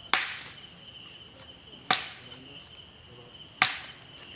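Three sharp knocks on wood, evenly spaced about a second and three-quarters apart, like a tree being chopped. Under them, insects shrill steadily on one high note.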